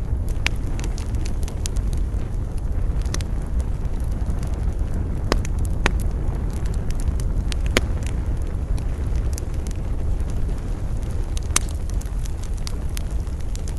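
Campfire crackling: scattered sharp pops and snaps of burning wood over a steady low rumble of wind.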